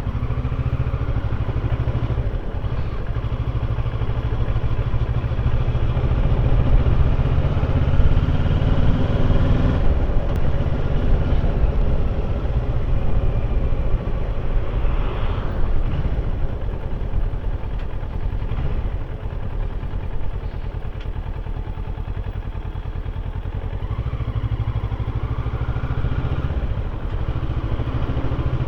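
Kawasaki motorcycle engine running under way, its note rising and falling as the bike speeds up and slows.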